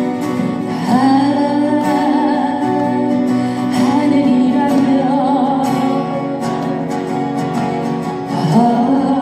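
Live band playing a slow ballad: a singer holds long, wavering notes with vibrato over guitar and steady chords.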